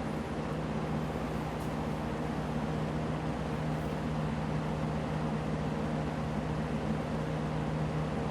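1975 Galaxy 3713 box fan with its plastic-housed motor running steadily on medium speed: an even rush of moving air over a constant low motor hum.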